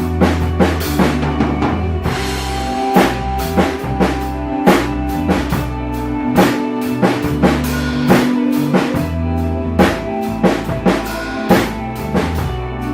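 Drum kit played along to an ambient rock backing track: steady bass drum and snare hits over held bass notes and sustained chords.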